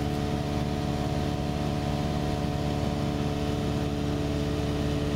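Cessna 172 light aircraft's piston engine and propeller running steadily: a constant, even hum of several low tones over a rushing noise.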